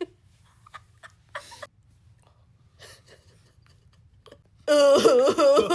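A person's voice making a loud, wavering made-up noise, its pitch wobbling rapidly up and down. It starts suddenly near the end, after a few seconds of near quiet broken only by faint short sounds.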